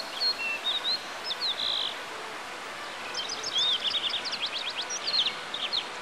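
Wild birds chirping and whistling over a steady hiss: a few separate short whistles in the first two seconds, then a busy run of quick chirps from about three seconds in.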